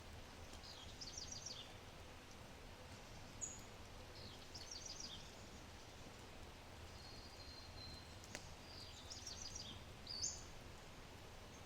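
Songbird singing short, high trilled phrases, three times about four seconds apart, with two sharp chirps and a brief thin whistle in between. One sharp crackle from a wood fire sounds about eight seconds in, over a faint low background rumble.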